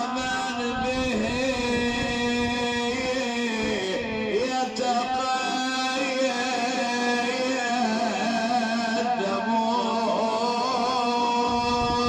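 A man chanting a mournful Husseini elegy (rithā') in long, drawn-out melismatic notes that waver and glide slowly in pitch.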